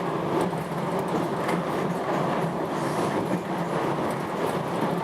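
Passenger train running, heard from inside the carriage: a steady, even noise of wheels on rails with a few faint clicks.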